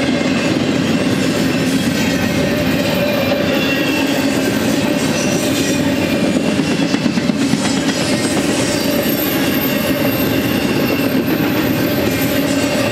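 Loaded double-stack intermodal well cars rolling past steadily: the steel wheels rumble on the rails, with faint high wheel squeals coming and going.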